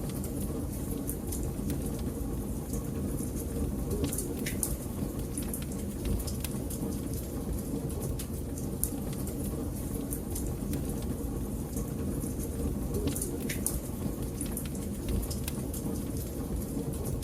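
Wood fire burning in a fireplace: a steady low rumble of flames with frequent small crackles and pops, a couple of sharper snaps about four and thirteen seconds in.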